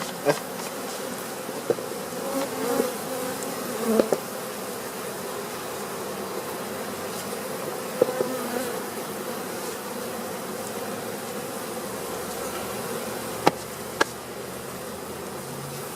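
A mass of agitated honey bees buzzing steadily around an opened hive, with a few brief sharp clicks from handling the hive partway through and near the end. The bees are defensive, crawling up clothing and trying to sting.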